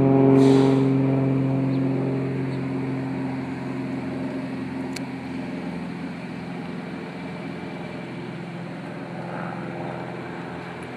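Airplane engine at takeoff power, a steady pitched drone that is loudest about half a second in and then slowly fades as the plane climbs away.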